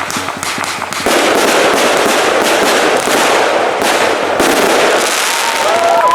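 Fireworks going off in a dense run of crackles over a continuous hiss, louder and thicker from about a second in.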